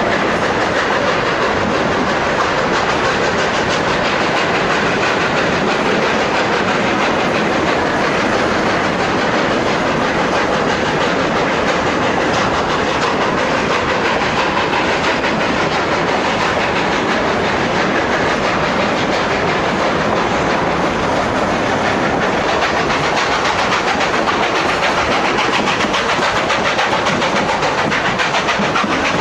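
Narrow-gauge train running along the line: a steady rattle and clatter of wheels on the rails and of the moving cars.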